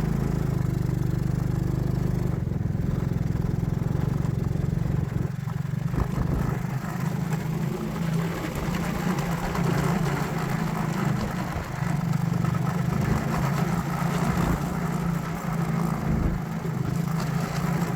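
A vehicle's engine running steadily as it drives along at low speed, with a low, even drone that wavers slightly.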